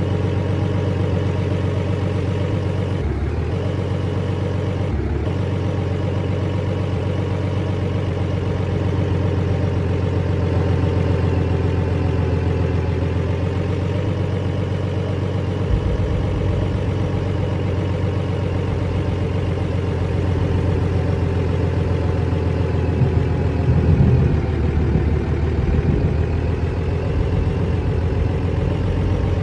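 Vehicle engine running steadily, with two brief dropouts a few seconds in.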